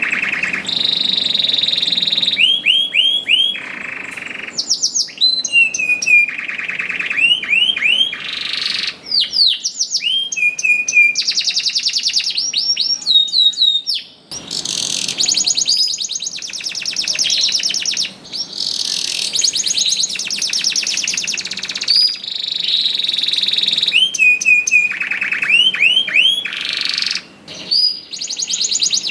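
Domestic canary in full, non-stop song: series of quick repeated swooping whistled notes alternating with long, fast, buzzy trills and rolls, with only brief pauses.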